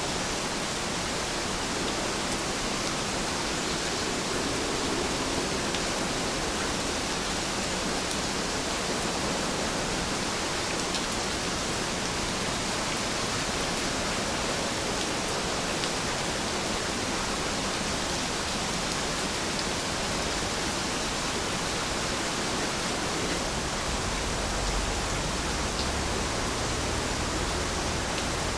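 Heavy rain falling steadily, an even hiss of many drops with a few faint separate ticks.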